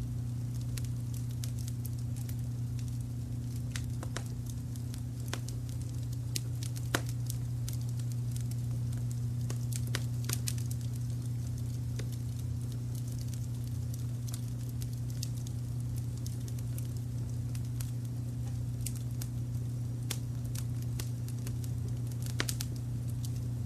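Wood fire crackling, with scattered small clicks and sharper pops now and then, over a steady low brown-noise rumble.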